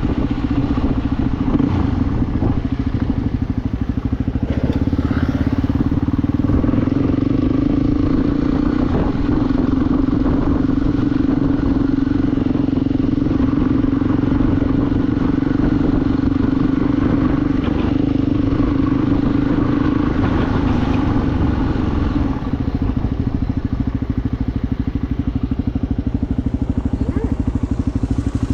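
Motorcycle engine running steadily while riding. Its note changes and eases off about three-quarters of the way through.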